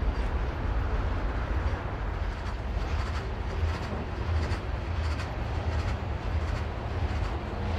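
GE diesel-electric freight locomotives and a long train of freight cars rolling along the track: a steady low engine rumble with the hiss of wheels on rail and faint irregular ticks.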